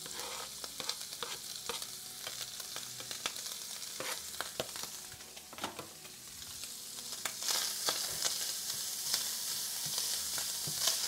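Diced bacon and ham sizzling in a stainless steel skillet over high heat, with a silicone spatula scraping and clicking against the pan as the pieces are stirred. The sizzle grows louder about two-thirds of the way in.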